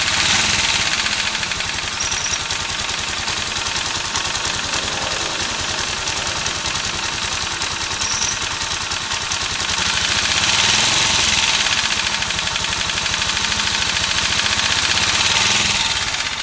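AKT Evo 150 NE motorcycle engine running, with a fast, even ticking over the engine sound that the owner takes for an abnormal engine noise after three months of use, though the workshop calls it normal. It grows a little louder about ten seconds in.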